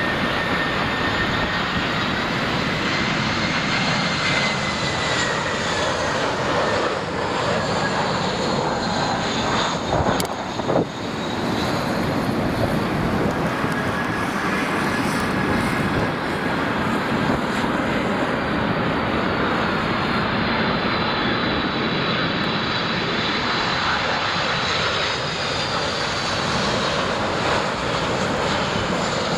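Jet airliner engines running as an aircraft moves past: a steady, loud rush with a high whine that slowly drifts in pitch. There is a brief knock about ten seconds in.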